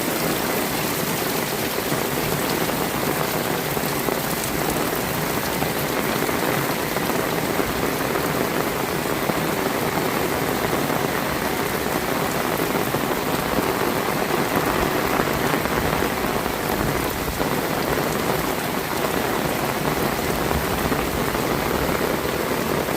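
Heavy rain falling steadily and evenly onto surfaces, a dense unbroken hiss of drops.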